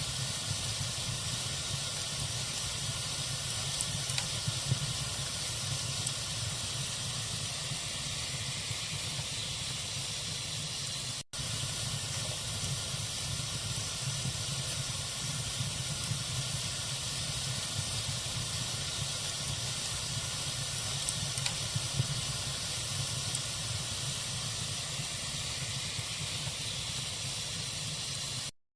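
Log fire burning with a steady hiss and a few small crackles. The sound drops out for an instant about a third of the way in and cuts off suddenly just before the end.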